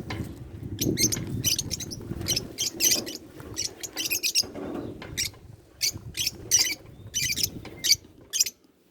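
Lovebirds chattering: rapid, shrill, overlapping chirps from several birds that stop shortly before the end.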